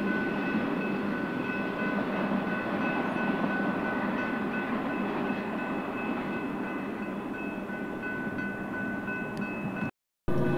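Freight train cars rolling past on the rails: a steady rolling rumble with thin, steady high-pitched tones over it. Near the end it cuts out abruptly for a moment, and a louder train sound starts after the cut.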